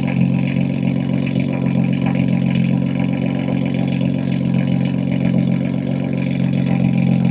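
BMW M2 G87's S58 twin-turbo inline-six, fitted with catless downpipes and an equal-length mid pipe, running at a steady cruise with an even exhaust drone that holds one pitch.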